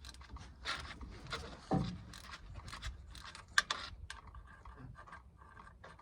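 Hand tools and metal engine parts being handled: a run of short scrapes and clicks, with a dull knock a little under two seconds in and a sharp click a couple of seconds later.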